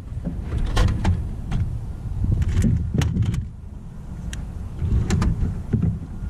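Hands-on work on a radiator hose: a low rumble of handling noise with several sharp clicks and taps spread through.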